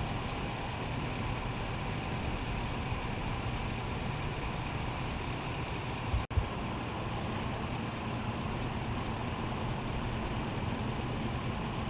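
Steady rumble of motor vehicles running, heaviest in the low end, with a brief dropout and click about six seconds in.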